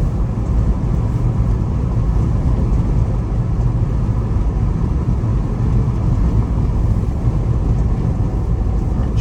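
Steady low rumble of engine and road noise inside a moving Jeep's cabin.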